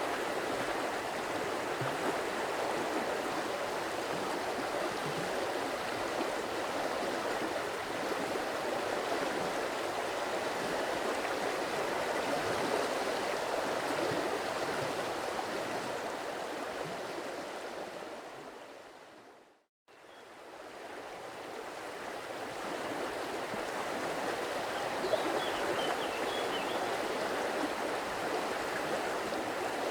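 A stream of water flowing steadily. About two-thirds of the way through it fades out to silence and then fades back in.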